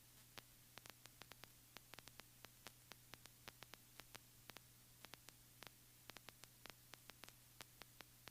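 Near silence: a faint steady hum with scattered faint clicks, several a second at irregular spacing, like line static.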